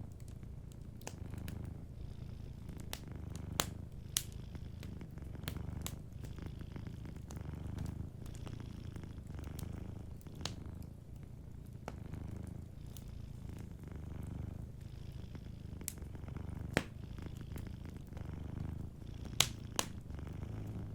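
Domestic cat purring: a steady low rumble that swells and eases with each breath. Wood fire crackling over it, with scattered sharp pops, the loudest pops near the end.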